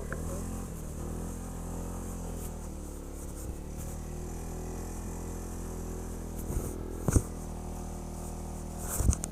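ATV engine running steadily at low speed, its pitch dipping slightly now and then, with a sharp knock about seven seconds in and a cluster of clunks near the end.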